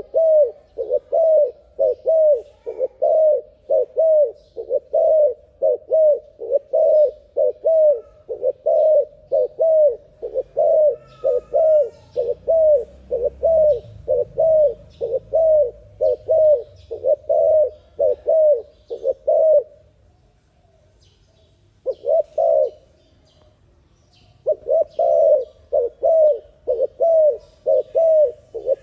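Dove cooing in a fast, unbroken run of short coo notes, about two a second. The run stops for about four seconds past the middle, broken once by a brief burst, then starts again.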